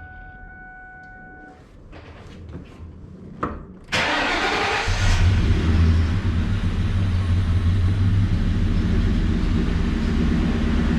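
2003 Ford Mustang GT's 4.6-litre V8 cranked briefly and firing about four seconds in, then settling into a steady idle. Before it come a few faint clicks.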